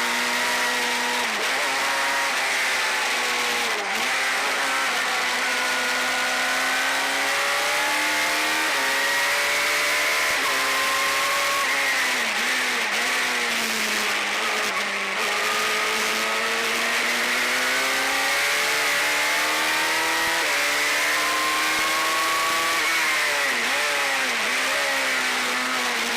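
Suzuki Hayabusa inline-four motorcycle engine in a single-seater race car, running hard at high revs. Its pitch climbs steadily through long pulls and drops sharply at gear changes, about 4 s in, around 12 to 13 s, and in a quick cluster near the end.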